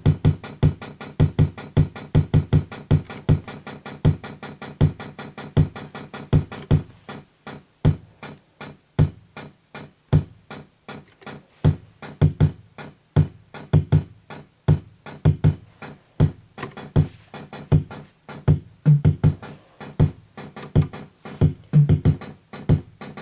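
Soviet-made Sound Auto Drummer preset drum machine playing a rhythm pattern: steady electronic bass-drum thumps with clicking percussion, the pattern changing about seven seconds in. No snare or clap sounds in the pattern, because those voices are faulty on this unit.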